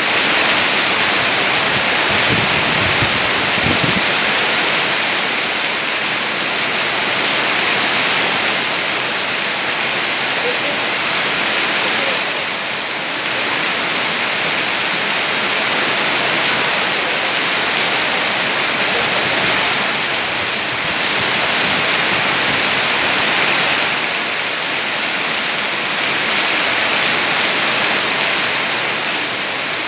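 Heavy tropical rain pouring steadily through tree foliage, the hiss of the downpour swelling and easing slightly every several seconds. A brief low rumble comes about three seconds in.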